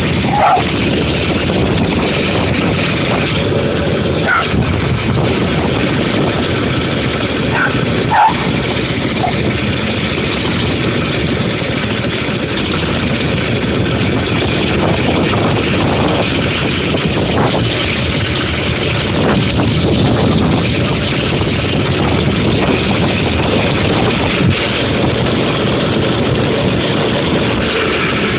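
Dirt bike engine running steadily, with a few short clicks in the first eight seconds.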